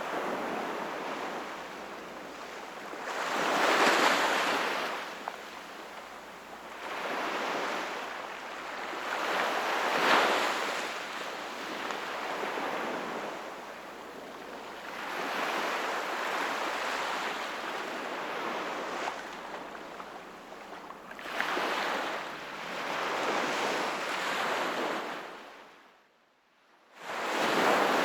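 Sea waves breaking and washing up the shore, surging and ebbing every few seconds. Near the end the sound fades almost to nothing for about a second, then the next wave comes in loud.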